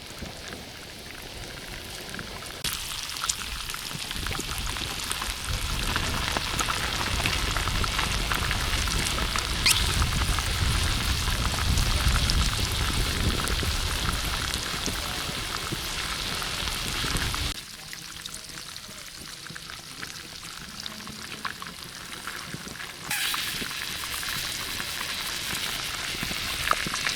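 Hot oil sizzling and crackling steadily as food deep-fries. The sizzle drops off suddenly about two-thirds of the way through and picks up again near the end.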